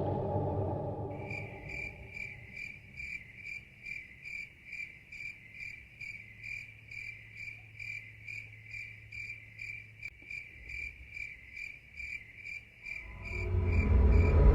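A cricket chirping steadily, about two short high chirps a second, starting about a second in. A low rumble fades out at the start, and another low rumble swells up near the end.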